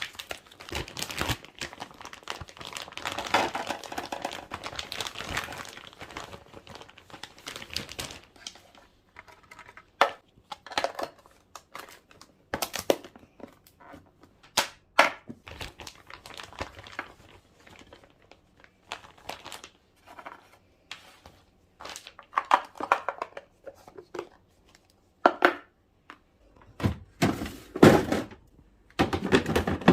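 Plastic packaging crinkling for several seconds, then separate clicks and knocks of containers and packs being handled and set down, with a few heavier thunks near the end.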